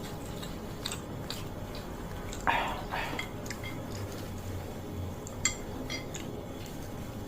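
Cutlery clinking against a plate a few times as fried noodles are eaten. The loudest clink comes about two and a half seconds in, and another sharp one about five and a half seconds in.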